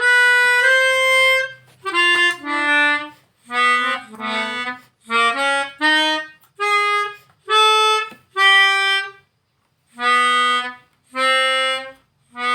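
Harmonica playing a slow melody in short phrases of held notes, with brief pauses for breath between them.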